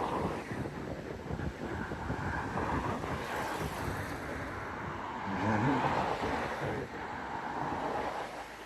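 Road traffic passing, cars driving by with wind noise on the microphone; a louder vehicle goes past about five to six seconds in.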